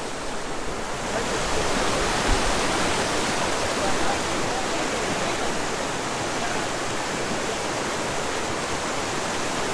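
Waterfall rushing: a steady, dense roar of falling water, which grows a little louder about a second in.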